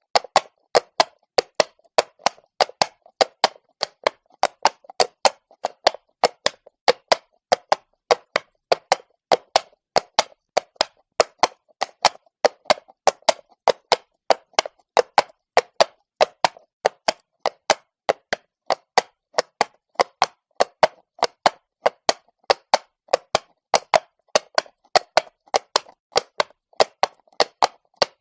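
A horse's shod hooves striking stone cobbles at a walk, a steady even clip-clop rhythm of sharp knocks, about three to four a second.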